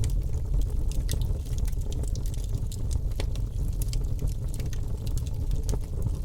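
Wood fire burning in a fireplace, crackling with many small irregular pops over a steady low rumble of the flames.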